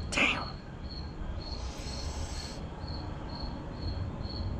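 Insects chirping in an even rhythm, about two high chirps a second, over a low steady rumble, with a brief hiss about a second and a half in.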